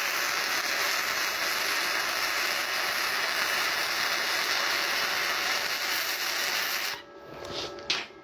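Welding arc crackling and hissing steadily for about seven seconds, then cutting off suddenly as the arc is broken. A single sharp click follows about a second later.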